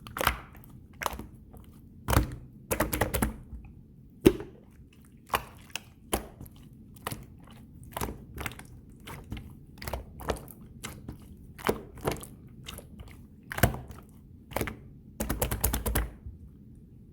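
Clear slime being squished and pressed by hand, giving irregular sticky clicks and pops, with quick runs of clicks a few seconds in and again near the end.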